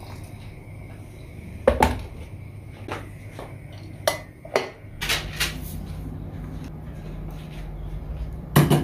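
Dishes and utensils being handled in a small room: a run of sharp clinks and knocks, about six in all, the loudest near the start and just before the end, with a low steady hum coming in about halfway through.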